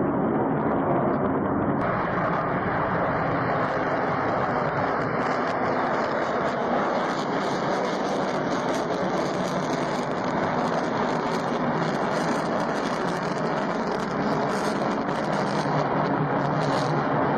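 Steady vehicle engine noise, an even rushing sound that gains more hiss about two seconds in.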